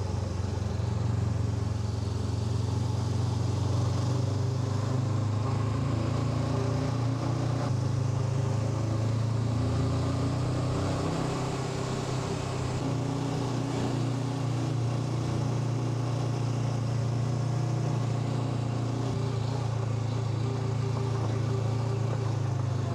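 Honda NX500's parallel-twin engine running at a steady, even pace, a low steady hum with a noisy haze above it.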